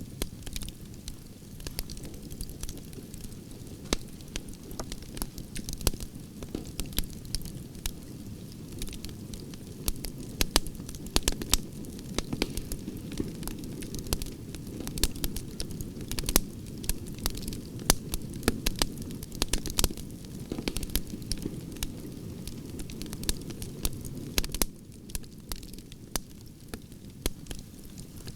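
Campfire of burning branches crackling: a steady low rumble of flames with many sharp pops and snaps, busiest in the middle and a little sparser near the end.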